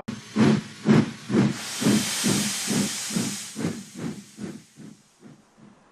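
Steam locomotive chuffing about twice a second, the puffs growing quieter toward the end, with a loud hiss of steam early on.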